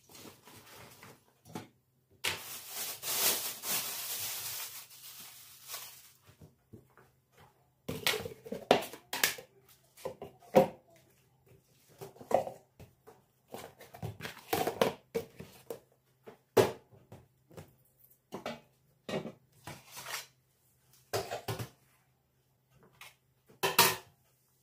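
Household handling sounds: a few seconds of rustling near the start, then a long irregular run of clinks and knocks as dishes and kitchen things are picked up and set down.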